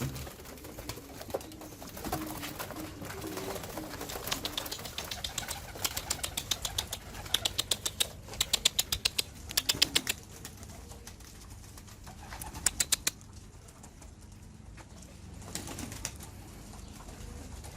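Domestic pigeons cooing, with quick runs of wing claps as birds flutter and take off, loudest in the middle stretch and once more briefly later on.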